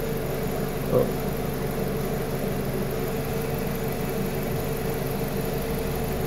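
Petrol car engine idling steadily, with a brief short sound about a second in.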